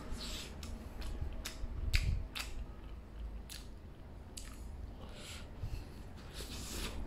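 A person chewing a mouthful of steamed meat bun close to the microphone: irregular wet mouth clicks and smacks, about one or two a second.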